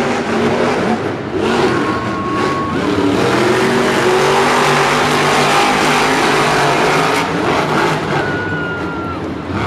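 Monster truck engines, supercharged big-block V8s, running and revving hard in a race, loud and sustained with shifting pitch.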